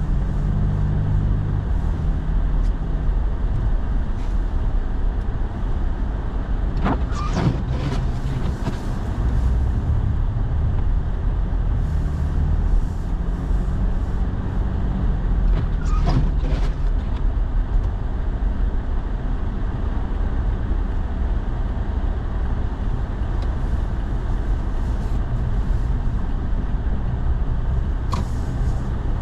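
A pickup truck driving, heard from inside the cab: a steady low engine and road rumble with tyre noise on snowy streets. Two brief higher sweeping sounds come through about seven and sixteen seconds in.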